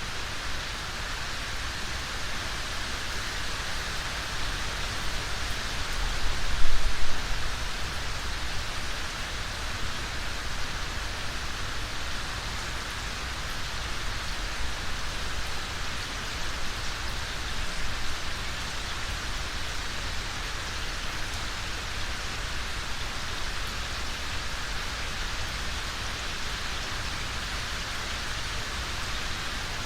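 Steady rain falling as an even hiss, with a brief low rumble about seven seconds in.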